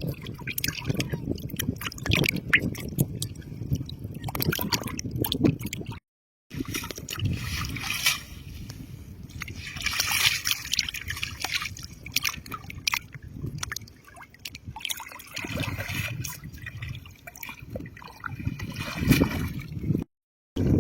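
Shallow lake water sloshing, splashing and trickling, with many small irregular splashes and clicks, as water is stirred by hand or foot. The sound breaks off completely twice, briefly.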